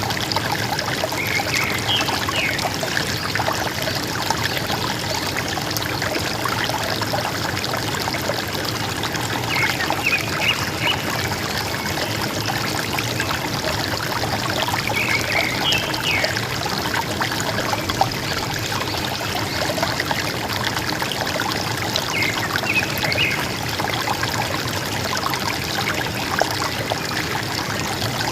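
River water running and gurgling steadily. A forest bird gives short chirping phrases about five times, several seconds apart.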